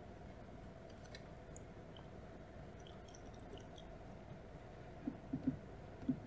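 Close-miked chewing of sushi, soft mouth sounds with faint clicks. A few louder chews come near the end.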